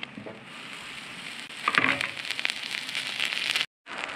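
Onion, green pepper and sausages sizzling and crackling on a hot flat-top griddle, louder for a moment near the middle, with a short gap of silence near the end.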